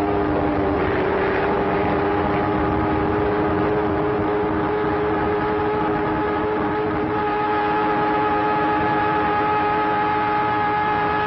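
Propeller airplane engine droning steadily, a constant pitched hum over a rushing noise, as heard on an old film soundtrack.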